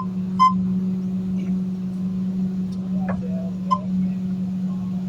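Garbage truck running with a steady low drone, with a single short high beep from its warning beeper about half a second in. The beeper is sounding irregularly and is said to be malfunctioning.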